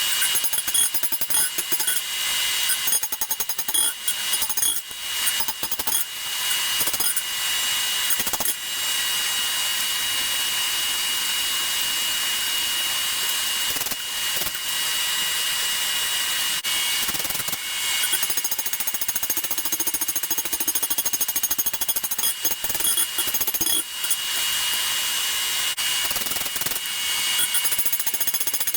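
A power tool running steadily with a high whine, its level dipping briefly every few seconds.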